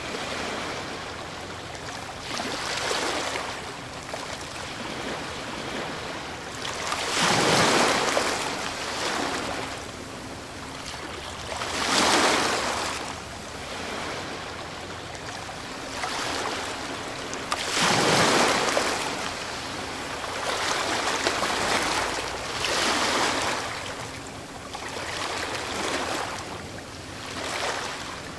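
Ocean waves breaking on the shore, each wave swelling into a rushing surge and then washing back, with the largest breaks coming every five or six seconds.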